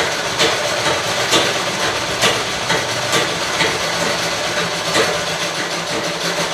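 Treadle (foot-pedal) sewing machine stitching at a slow, steady pace. Its mechanism runs continuously, with a sharp click about once a second.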